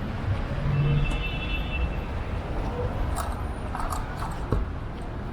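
Wind rumbling on the microphone and road traffic noise while riding an electric scooter, with a brief steady tone about a second in.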